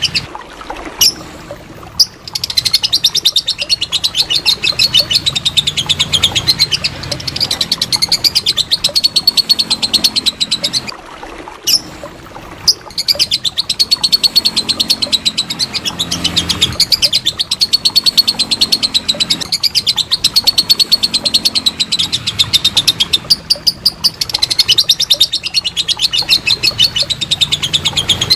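Lovebird singing its long "ngekek": a rapid, chattering run of sharp high notes that goes on for many seconds, pausing briefly twice.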